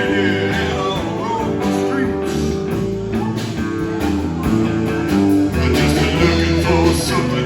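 Rock band playing the instrumental opening of a garage-rock song: electric guitar riff over bass and drums.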